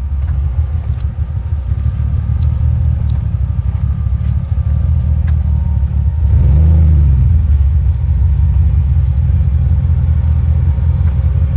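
Jeep Comanche pickup's engine running as it drives slowly onto the trail: a low, steady rumble that picks up in revs briefly about six seconds in, then settles back.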